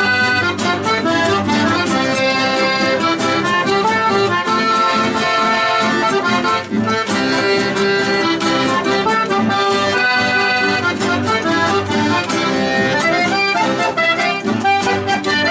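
Accordion playing an Argentine folk tune, with melody and chords together over a steady rhythm.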